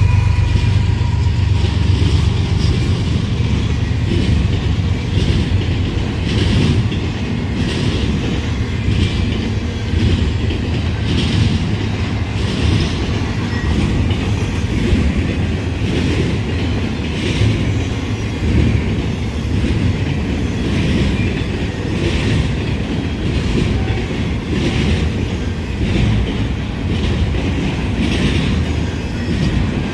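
Freight train cars rolling past with a steady heavy rumble, their wheels clacking about once a second.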